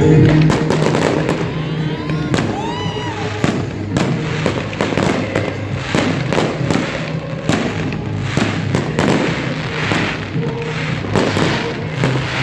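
Fireworks going off in a rapid series of bangs and crackles, with whistling shells rising and falling about two to three seconds in. Festival music plays underneath.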